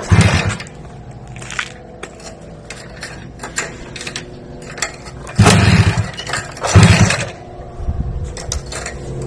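A motor running with a steady low hum, broken by three short, loud bursts of noise: one at the start, one about five and a half seconds in and one about seven seconds in.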